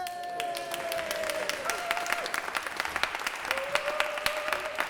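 Audience applauding, many hands clapping steadily, with a voice or two calling out over the claps.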